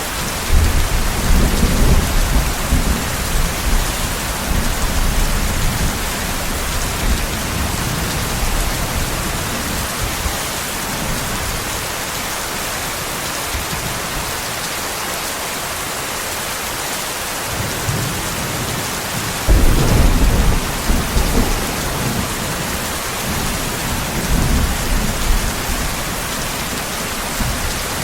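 Steady rain with two rolls of thunder. The first deep rumble starts about half a second in and dies away over several seconds. The second breaks more sharply about two-thirds of the way through and rolls on in waves.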